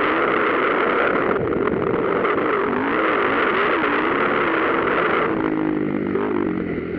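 Motocross motorcycle engines running, their pitch rising and falling as the throttle is worked, over a steady rush of engine noise.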